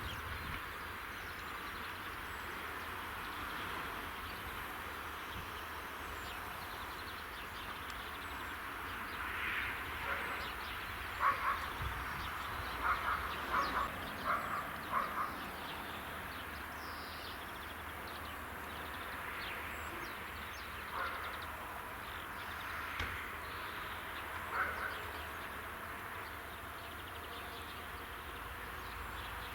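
Outdoor rural ambience: a steady hiss with short bird calls, a quick cluster of them about a third of the way in and a few single calls later.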